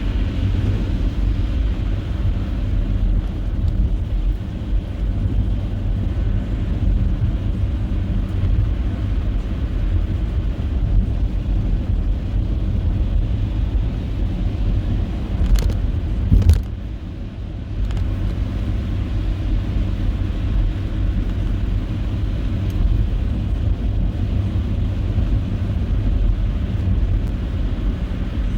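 Steady low rumble of a car driving, with road and engine noise. A little past the middle come two sharp knocks, then the rumble drops for about a second before going on.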